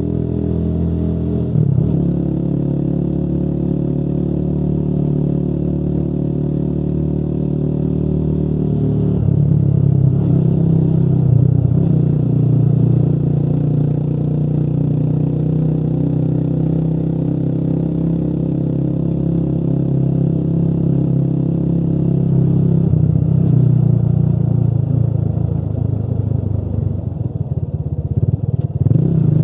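Motorcycle engine running while being ridden, its note shifting in pitch a few times.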